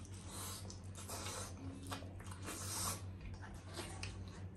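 Two people biting and chewing sausage and rice close to the microphone: irregular wet mouth and chewing sounds in short bursts, over a steady low hum.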